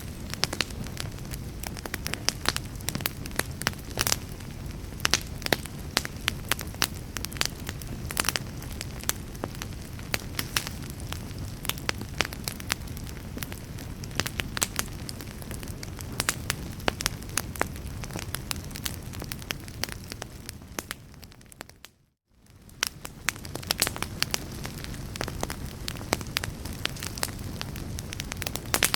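Wood fire crackling, with frequent sharp pops over a steady low rumble and hiss. About 21 seconds in, the sound fades down to near silence for a moment, then fades back up.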